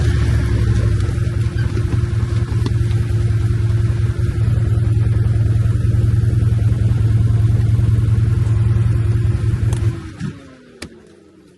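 An engine running steadily, then shut off about ten seconds in, its hum sliding down in pitch as it winds down.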